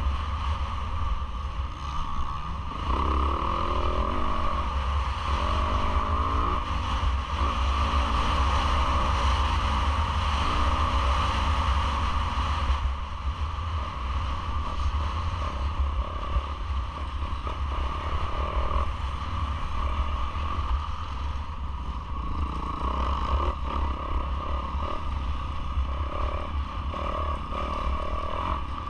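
Yamaha YZ450F four-stroke single-cylinder motocross engine under race load, its revs climbing and dropping repeatedly as the rider works the throttle and gears, over a constant low rumble.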